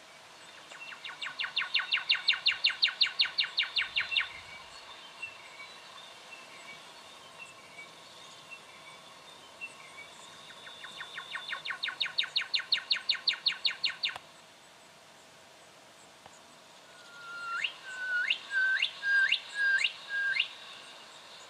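Juvenile brown goshawk calling: two rapid chattering runs of about seven sharp notes a second, each growing louder and stopping abruptly, then six separate calls near the end that each sweep steeply upward in pitch.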